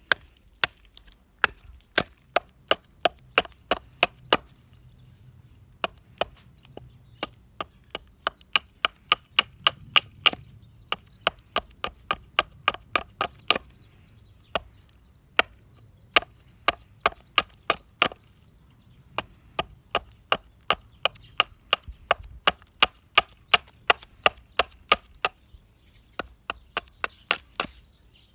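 Repeated sharp strikes of a hand tool chopping into dead pine wood to get at the fatwood, about two to three blows a second. They come in runs broken by brief pauses.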